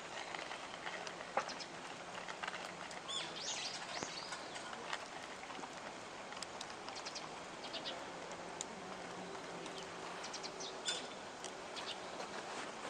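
Small birds chirping and calling in short bursts over faint outdoor ambience, with scattered light clicks.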